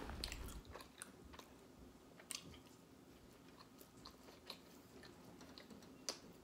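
Faint chewing of soft roti flatbread and goat curry, with a scatter of small wet mouth clicks and smacks.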